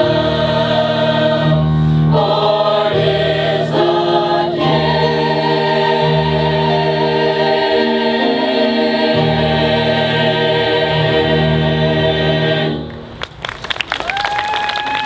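Choir singing a sustained closing chord over low bass notes. The song ends about 13 seconds in, and the audience breaks into applause, with one held cheer rising above it.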